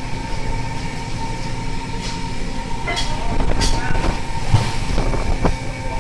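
Steady mechanical drone of a longline fishing boat's engine and deck machinery, with a run of knocks and clanks in the second half.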